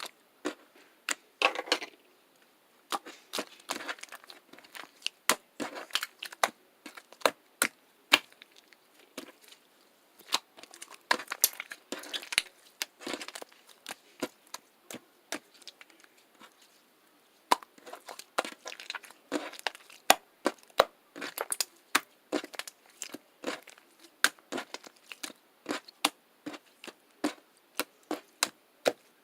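Irregular crinkling and crackling: many short, sharp clicks and rustles coming in clusters, with a brief lull about halfway through.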